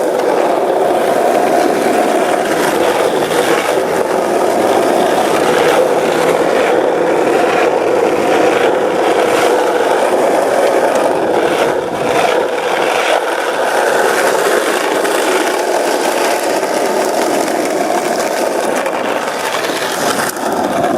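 Skateboard wheels rolling over pavement: a steady, continuous rumble with faint irregular ticks from cracks and rough spots in the surface.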